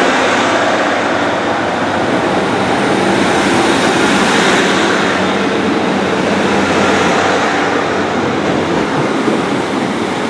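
Diesel multiple unit pulling out of the station and passing close by, engine running under power over the noise of its wheels on the rails. The sound is loudest about four seconds in, then eases slightly.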